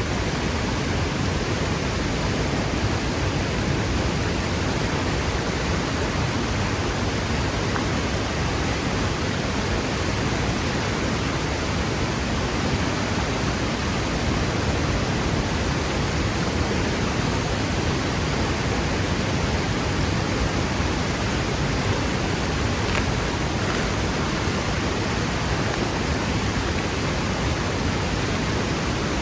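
Waterfall pouring into its plunge pool: a steady, dense rush of falling water with no let-up.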